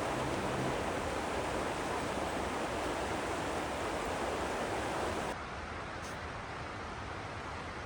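Steady rush of fast-flowing creek water, a dense even noise. About five seconds in it drops abruptly to a quieter, duller rush.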